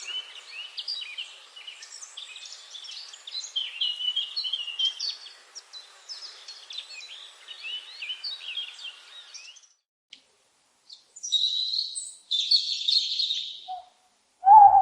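A dense chorus of small birds chirping and twittering for most of the clip, breaking off about two-thirds of the way through. After a short pause come two harsher, raspy bursts of calling, and a loud, much lower call begins right at the end.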